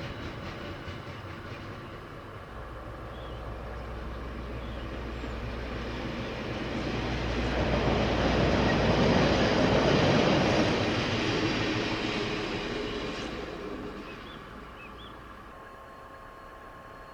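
KiwiRail freight train passing: a diesel locomotive's steady low hum and the rumble of the wheels on the track grow louder to a peak about halfway through, then fade away.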